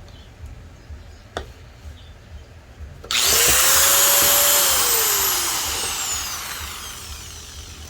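Makita grinder switched on about three seconds in. It spins up to speed with a loud high whine, runs briefly, then is switched off and winds down with falling pitch. This is a test run after repairing the grinder, which had been sparking and popping inside.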